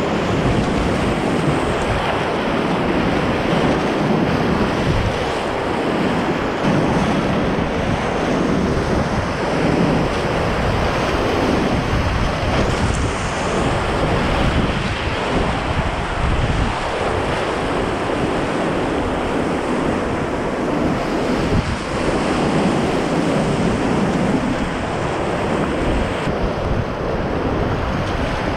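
Whitewater rapids at high water, about 150 cubic metres per second, giving a loud, steady rushing roar, with wind buffeting the microphone.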